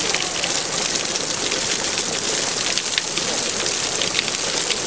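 Heavy downpour from a squall line: a steady hiss of pouring rain, dotted with many sharp individual drop impacts.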